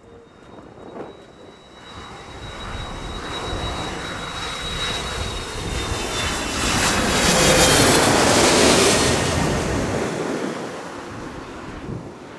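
Airliner's engines passing close by, swelling to a peak about two-thirds of the way in and then fading, with a high engine whine that drops slightly in pitch as it goes past.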